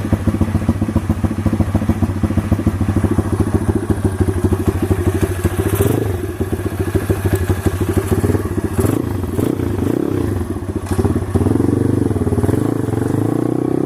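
SSR TR160's single-cylinder four-stroke engine idling while it warms up, with rapid, even firing pulses. From about six seconds in the engine speed starts to rise and fall as the bike is ridden off.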